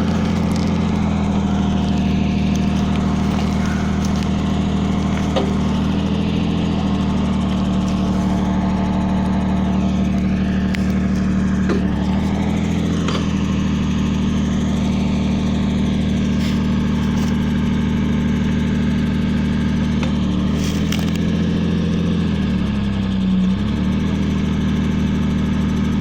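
Diesel engine of a Mercedes-Benz 1313 truck running steadily while it drives the truck-mounted hydraulic crane loading logs, its pitch dipping and recovering a few times as the load changes, with a few sharp knocks.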